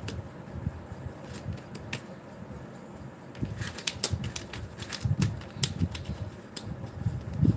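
Irregular light clicks, taps and soft low knocks as a cat paws and pulls at whatever holds the kitten, trying to drag it out.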